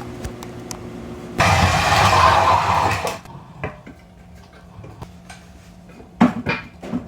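Metal parts and tools being handled, with scattered clicks and a quick run of sharp metallic clanks near the end. A loud rushing noise lasting almost two seconds starts about a second and a half in.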